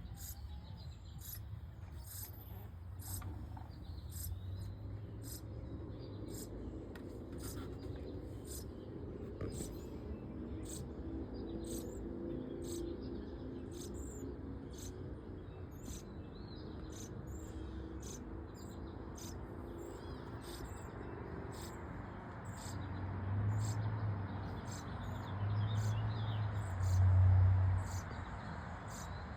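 Short, very high chirps repeating irregularly, about one to two a second, over a faint steady background, with a few low rumbles near the end.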